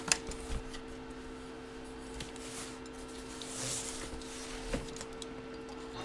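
Faint rustling and a few small clicks of packaging being handled, over a steady electrical hum.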